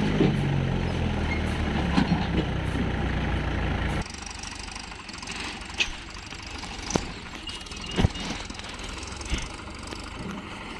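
Tractor diesel engine running steadily at idle. It cuts off abruptly about four seconds in, leaving a quieter background with a few sharp knocks.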